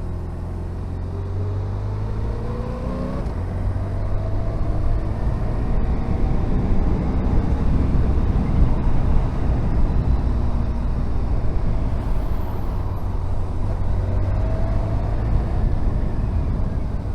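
Honda VFR1200F's V4 engine running under way, its pitch rising as it accelerates over the first few seconds and again near the end, over a steady low rumble. A rushing noise builds toward the middle.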